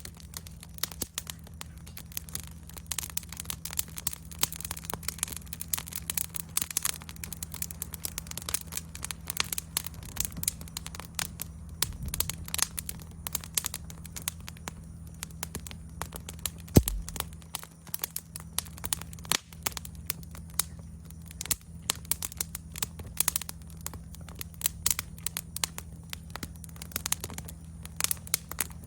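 Wood fire in a fire stand crackling and popping, with dense irregular snaps and one sharp loud pop about 17 seconds in. A faint steady chirring of insects sits high behind it.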